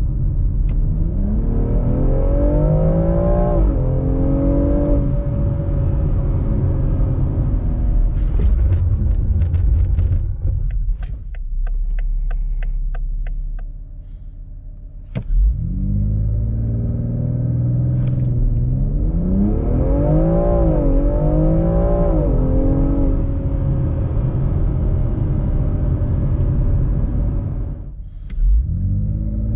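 BMW X3 M Competition's 3.0-litre twin-turbo inline-six under hard acceleration, twice. Each time the engine note climbs and drops back at quick upshifts of the eight-speed automatic, then settles to a steady run. Between the two runs the engine eases off, with a brief run of rapid clicks, before a sudden loud surge.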